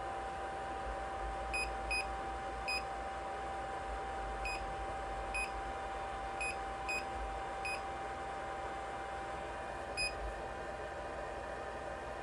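3D printer's control panel giving short high electronic beeps at uneven intervals, about nine in all, as its settings are adjusted, over a steady faint whine from the machine.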